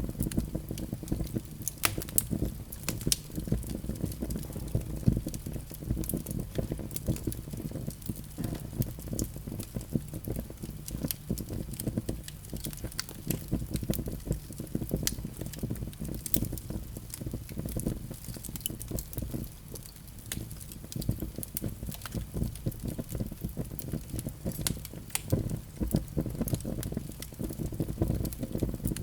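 Fire burning in a fireplace: a steady low rumble of flame with frequent sharp crackles and pops.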